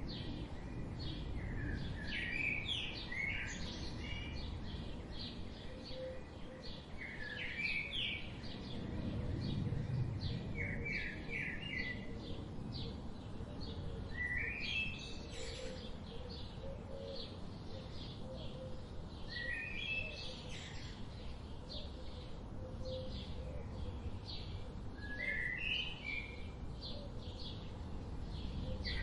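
Wild birds singing: one bird repeats a short warbled phrase every few seconds over a steady background of quick, thin chirps from other birds, with a low rumble of background noise underneath.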